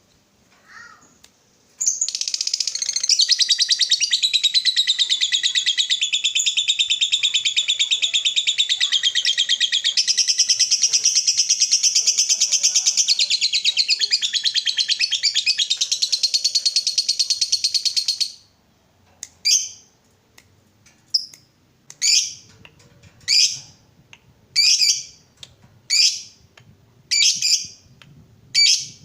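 Lovebird giving a long 'ngekek': a continuous, very rapid, high-pitched chattering trill lasting about sixteen seconds. It then breaks off into single shrill calls, about one every second and a half.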